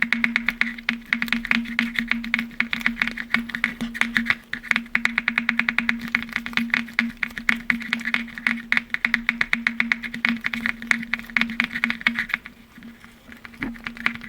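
Fingertips or nails tapping rapidly on glass objects, several taps a second, each with a short bright ring. The tapping thins to a few scattered taps near the end.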